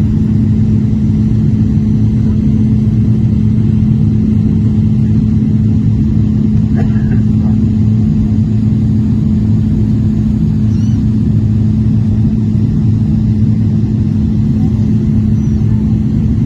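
Airliner cabin noise: a steady, loud drone of engines and airflow with a constant low hum.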